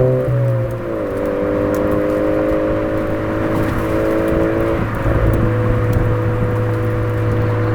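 Suzuki Swift Sport ZC33S's 1.4-litre turbocharged four-cylinder running through a Fujitsubo aftermarket exhaust on a downhill drive. The engine note drops in pitch about a second in, holds steady, then changes again about five seconds in.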